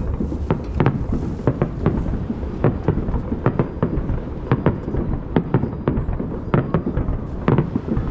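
Aerial fireworks shells bursting in quick succession, about two sharp bangs a second, over a continuous low rumble of booms echoing off the surrounding hills.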